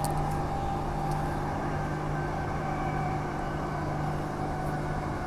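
Transperth A-series electric multiple unit running along the line, heard from inside the carriage: a steady hum with a few held tones over the rumble of the wheels on the rails.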